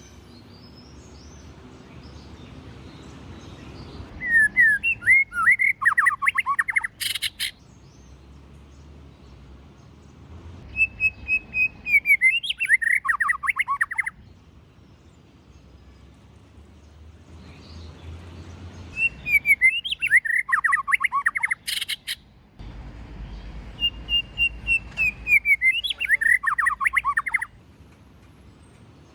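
White-rumped shama singing in four bursts of rapid whistled notes, each phrase sliding down in pitch, with quiet pauses between the bursts. Two short sharp clicks sound near the end of the first and third bursts.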